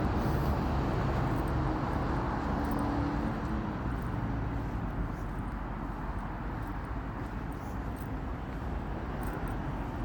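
Road traffic noise from passing vehicles, a steady rumble that is loudest in the first few seconds and eases off slightly after.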